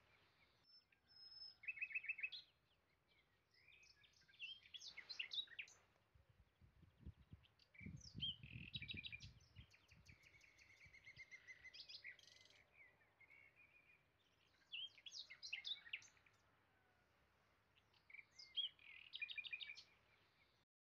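Faint birdsong: short phrases of quick high chirps recurring every few seconds. A patch of soft low knocks comes about seven to ten seconds in.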